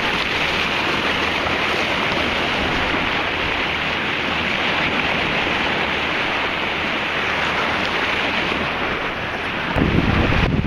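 Steady rush of wind and sea water, with wind buffeting the microphone; a louder low rumble of wind on the microphone comes in near the end.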